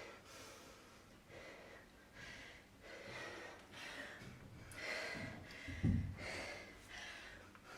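Heavy breathing during a rest after exertion, with soft breaths about once a second. A brief low thump comes about six seconds in.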